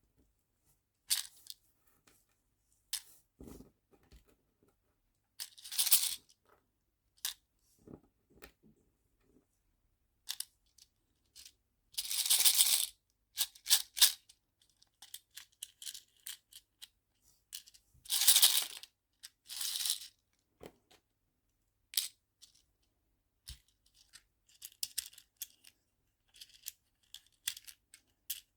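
Nail charms and small plastic storage boxes being handled: scattered light clicks and rattles, with a few brief rustling bursts like a small plastic bag being opened or crinkled.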